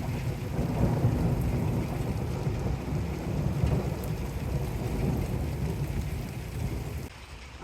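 Thunder rolling in a long low rumble over steady rain; the rumble drops away suddenly near the end.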